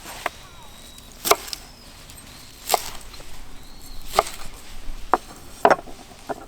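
Wood being chopped: about seven sharp, unevenly spaced strikes.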